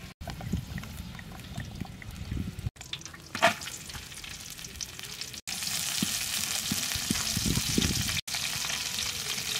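Food frying in a large wok: a steady sizzle that becomes louder and brighter about halfway through, with scattered low knocks and one sharp clink a few seconds in.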